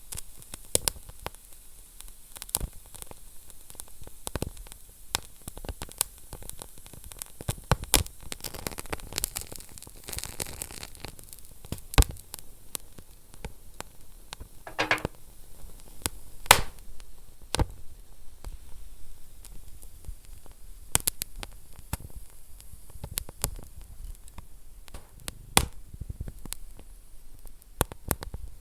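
Wood fire burning in a fireplace: irregular sharp crackles and pops over a soft steady hiss. A few pops stand out loudest, about 12 and 16 seconds in, and there is a short sizzling stretch before the middle.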